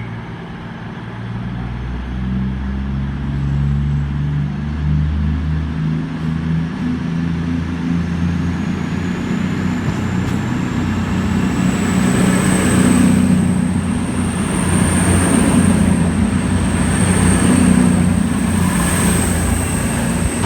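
Diesel multiple-unit train pulling out: its underfloor diesel engines throttle up, with a high-pitched whine that rises over the first half and then holds, the sound growing louder throughout.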